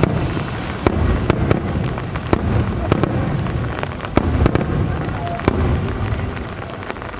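Aerial fireworks bursting in quick succession: sharp cracks over a deep rumbling, thinning out and getting quieter near the end.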